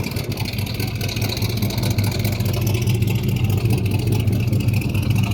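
A car engine running steadily at idle: a low, even hum with a fast regular pulse.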